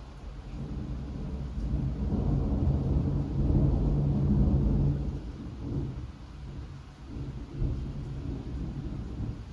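Rolling thunder: a deep rumble that swells over the first few seconds, is loudest around the middle, then eases off, with a further low surge near the end, over light rain.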